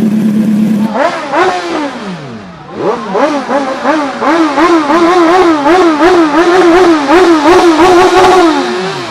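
Sport motorcycle engine held steady for a moment, then revved up once and let fall. It is then blipped in a quick, even run of revs, a couple to a few a second, before the revs drop away near the end.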